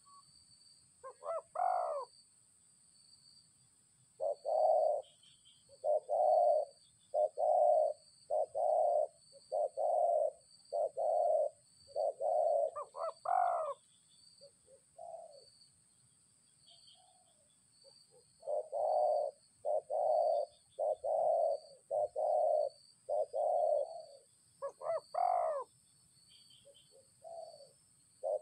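Dove cooing in runs of low, evenly spaced coos about one a second, each run opening with a higher rising note, with short pauses between runs. A steady high insect trill goes on underneath.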